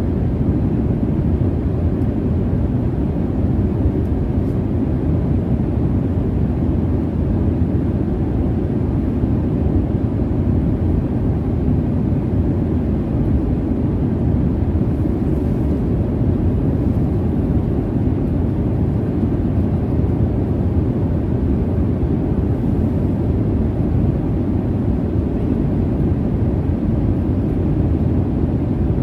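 Jet airliner cabin noise: a steady, unchanging low rumble with little in the high end.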